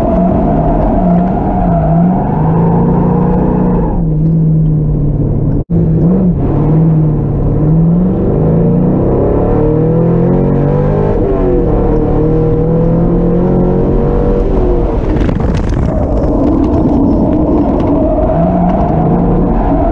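Drift car's engine revving hard, its pitch repeatedly climbing and falling as the throttle is worked, loud throughout. The sound cuts out for an instant about six seconds in.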